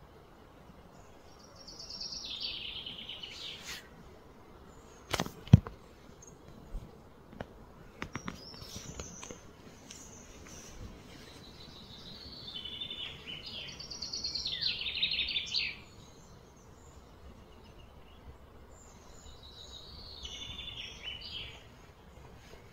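Birds calling in four short phrases of rapid repeated high notes that fall in pitch, with a sharp double knock about five seconds in.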